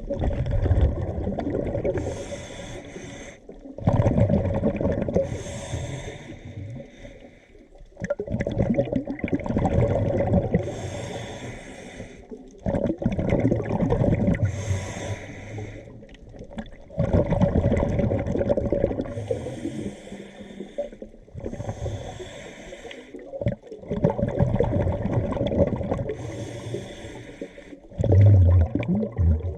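Scuba diver breathing through a regulator underwater: a drawn breath and a rush of exhaled bubbles, repeating about every four seconds.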